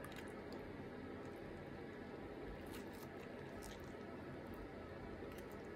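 Faint chewing of a mouthful of baguette filled with noodles, with a few soft clicks around the middle.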